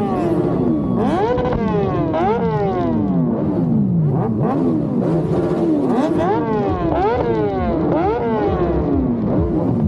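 Motorcycle engine revved over and over with quick throttle blips, each a sharp rise in pitch followed by a slower fall, coming less than a second apart.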